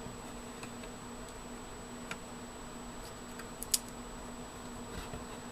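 A few light clicks and taps of a CPU cooler back plate being handled and fitted under a motherboard, with one sharper click about three and a half seconds in, over a steady low electrical hum.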